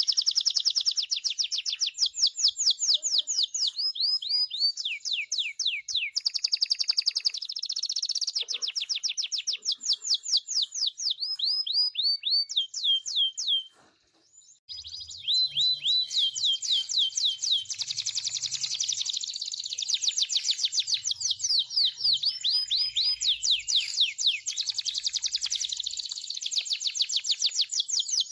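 Songbirds chirping in fast runs of high, quickly falling notes, many a second, overlapping almost continuously. They stop briefly about halfway through, then resume.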